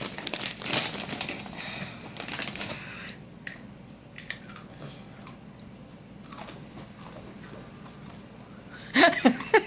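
A small child crunching and chewing crisp spicy chips, the loudest crunching in the first three seconds, then a few fainter crunches. A loud voice breaks in near the end.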